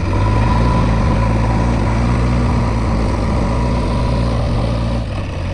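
Diesel engine running steadily at raised revs, easing off about five seconds in.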